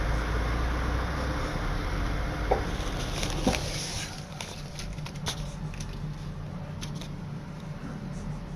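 A vehicle engine running low and steady, which eases off about four seconds in. Two knocks come in the first half, then scattered light clicks and rattles, typical of a tow truck's lifting gear at work.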